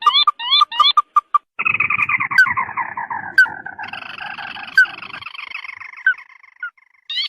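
Crake (burung tikusan) calls used as a hunting lure. It opens with a quick series of short upslurred notes, then a long, loud rattling trill that slides down in pitch and trails off, followed by a few scattered single notes.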